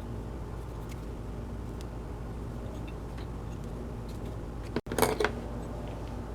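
A steady low hum with a few faint ticks. The sound cuts out for an instant near the five-second mark, followed right after by a brief, louder handling noise.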